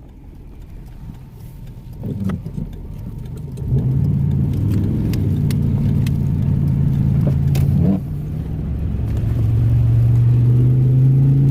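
Engine drone and road noise of a four-wheel-drive vehicle heard from inside the cab while driving on a slushy road. The drone grows louder about four seconds in, dips briefly around eight seconds, then builds again.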